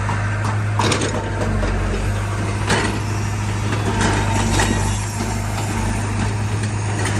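Heavy diesel engine running steadily at a low hum, with a few sharp metallic knocks.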